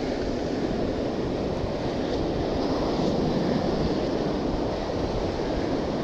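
Rough surf and strong wind buffeting the microphone, making a steady rushing noise.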